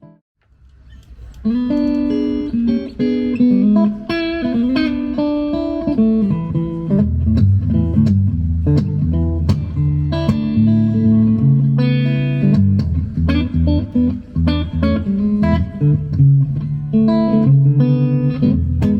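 Epiphone Emperor Swingster hollow-body archtop electric guitar being played, starting about a second and a half in after a brief pause: chords and single-note phrases, with lower bass notes coming in from about seven seconds.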